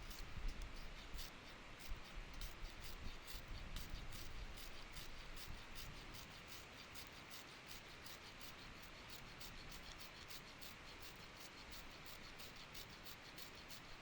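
Wood fire crackling with many small, irregular pops over the steady rush of a mountain stream.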